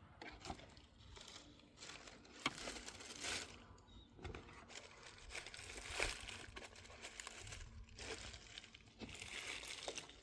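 Irregular rustling and crinkling with scattered small knocks and clicks, as of materials being handled and moved about.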